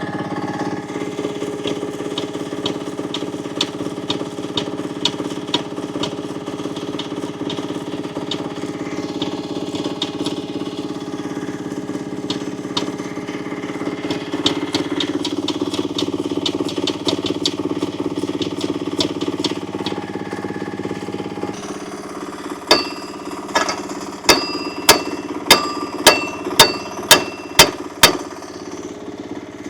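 Small excavator engine running steadily at idle. In the last seven seconds there are about eight sharp, ringing metal strikes, roughly half a second apart.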